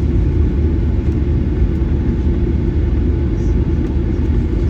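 Steady low rumble inside the cabin of a Boeing 737-900ER: its CFM56-7B engines and the airframe run with no change in pitch or level.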